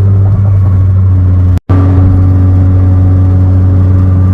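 Car engine and road noise heard from inside the cabin while cruising: a steady, loud low drone. It cuts out completely for an instant about one and a half seconds in.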